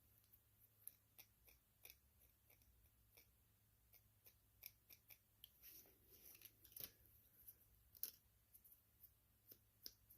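Near silence broken by faint, scattered clicks and light taps of carburetor parts being handled, a little busier in the second half.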